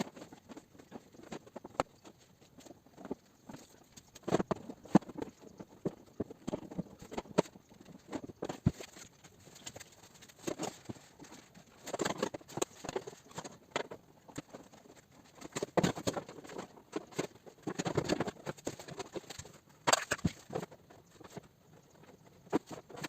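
Paintless dent repair tools working the sheet metal of a Toyota RAV4 tailgate: irregular light taps and clicks, some in quick runs, with pauses between.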